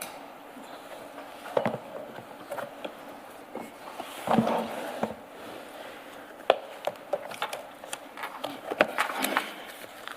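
Paper rustling and handling noise from exhibit files being leafed through, with scattered light clicks and knocks; the loudest rustle comes about four seconds in.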